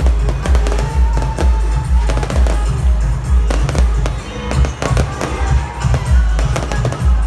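Fireworks crackling and bursting over loud party music with a heavy, steady bass beat.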